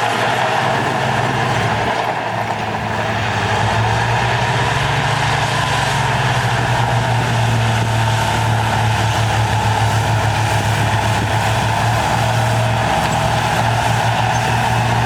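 Heavy diesel earthmoving machine running steadily under load, with a slight dip in level about two seconds in.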